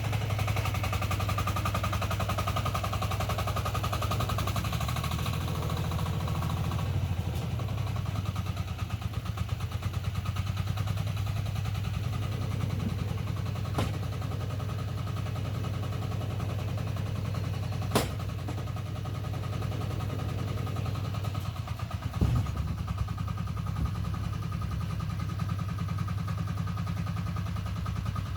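Diesel walk-behind tractor engine running steadily, easing off slightly about seven seconds in, while tipping a trailer load. Three sharp knocks come in the second half.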